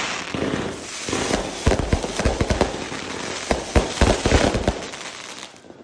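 Fireworks going off: a rapid run of sharp bangs over crackling, dying away near the end.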